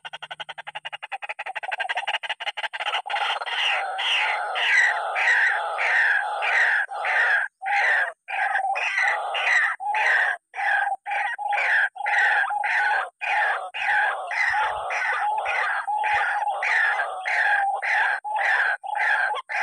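White-breasted waterhen (ruak-ruak) calling: a loud, unbroken run of repeated notes, about two a second.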